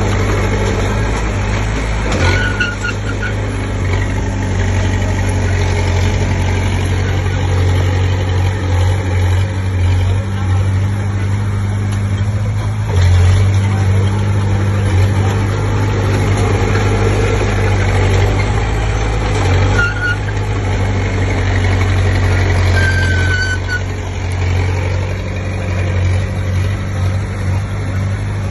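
Komatsu D20P bulldozer's diesel engine running steadily, with a few short high squeaks heard about two seconds in and twice more near the end.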